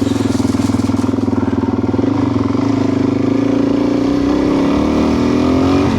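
Adventure motorcycle engine running under way, with a steady drone that rises slightly in pitch near the end as the bike speeds up.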